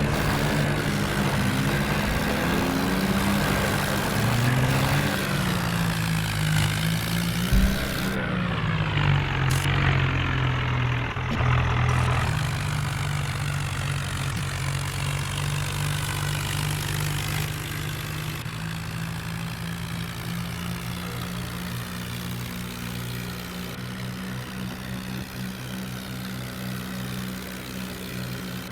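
Diesel tractor engine running, its pitch rising and falling over the first dozen seconds, then holding steady.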